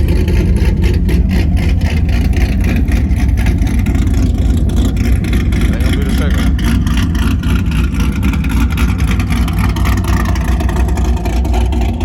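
A car engine running close by with a loud low rumble, and voices in the background.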